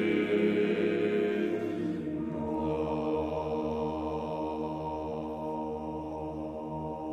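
Choir singing a slow chant in long held chords; the chord changes about two seconds in.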